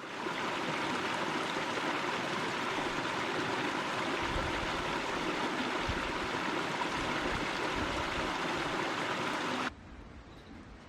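Steady rushing hiss of water that cuts off abruptly near the end.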